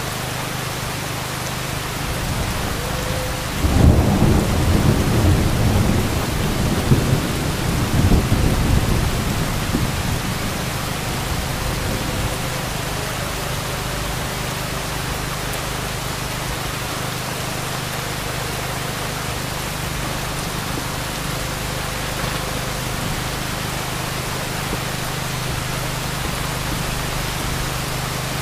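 Heavy rain falling steadily, with a sudden clap of thunder about four seconds in that rumbles on for several seconds, swells again a few seconds later, then fades back under the rain.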